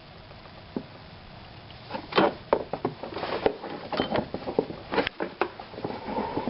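Irregular clicks and knocks, sparse at first and coming thicker after about two seconds, like parts or tools being handled.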